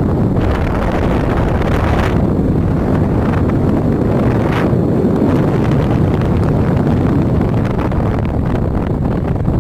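Wind buffeting the microphone over the steady rumble of a moving vehicle, with a few brief louder gusts.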